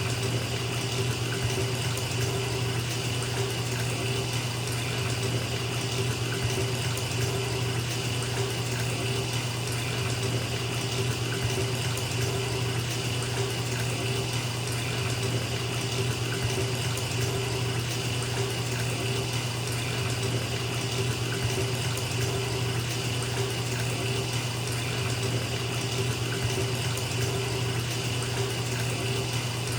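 Bathtub filling from a running tap: a steady, unbroken rush of water pouring into the tub, with a low hum beneath it.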